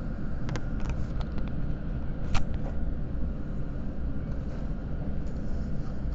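Steady low rumble inside a Seibu Red Arrow limited express train at the Seibu Shinjuku terminus, with a few light clicks in the first second and a half and one sharp knock a little over two seconds in.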